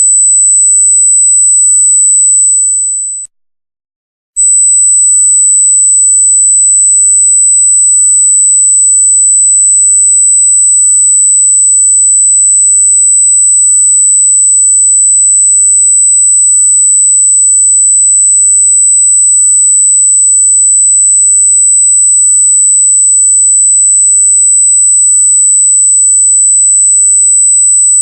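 A loud, steady, very high-pitched electronic pure tone, the kind used as an annoying noise. About three seconds in it dips and cuts out for about a second, then comes back at full level and holds steady.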